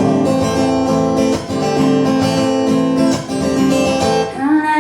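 Acoustic guitar strumming sustained chords in an instrumental gap between the sung lines of a blues-style song, with a few sharper strums along the way.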